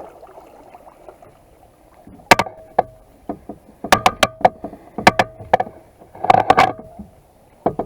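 A series of sharp, hollow knocks on a plastic kayak hull, some with a short ringing note after them, in quick clusters from about two seconds in until near the end, typical of a paddle bumping the boat.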